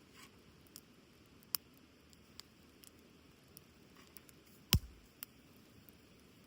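Wood fire crackling: scattered sharp pops over a quiet background, with one louder pop and a low thud a little after the middle.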